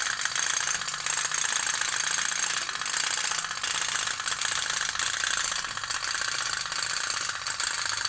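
Pop-pop toy boat (kapal otok-otok) running: its small heated boiler pulses and the thin tin diaphragm rattles in a fast, continuous popping, with a few brief dips in level.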